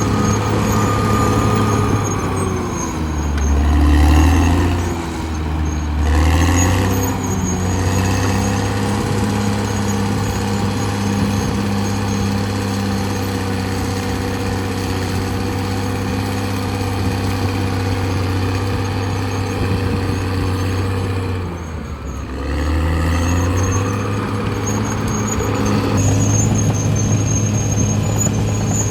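Caterpillar D6R XL bulldozer's diesel engine running steadily under load. Its note sags and then recovers a few seconds in, and again about two-thirds of the way through.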